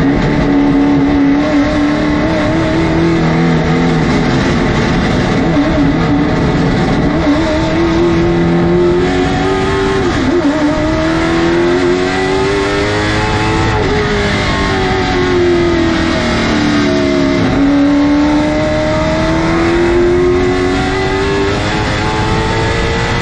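Late model stock car's engine at racing speed, heard onboard. The revs climb and fall as it laps, with a clear drop about seventeen seconds in before it pulls up again.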